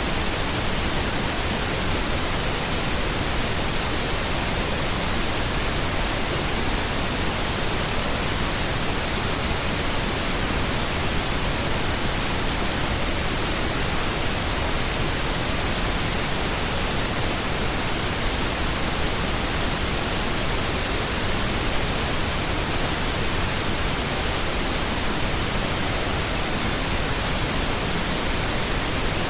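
Steady synthetic pink noise: an even, unchanging hiss spread across the whole range, with more weight in the lows than white noise.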